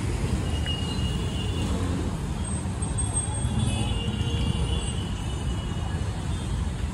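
Indian Railways passenger train giving a steady low rumble on the rails as its last coach passes and the train draws away.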